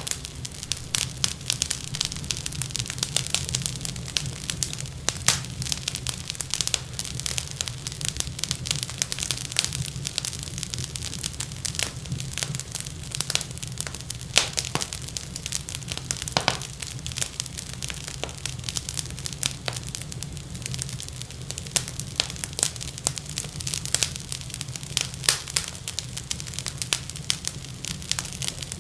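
Wood fire crackling in a fireplace: a steady stream of irregular pops and snaps over a low, even rumble of flame.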